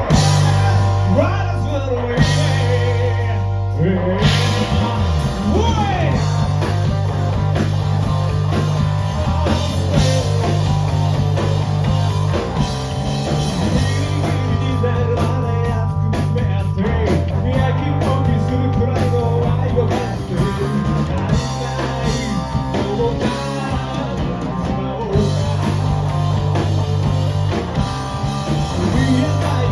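Rock band playing live: electric guitar, bass and drum kit, with a singer's voice over them.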